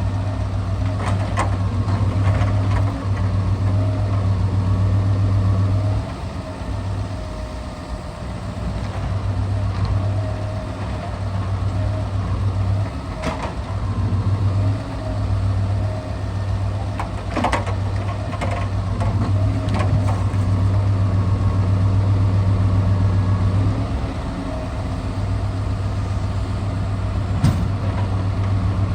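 Scania R650's V8 diesel running steadily while it powers the hydraulic timber crane, its level dropping and coming back several times. A few sharp knocks ring out over it.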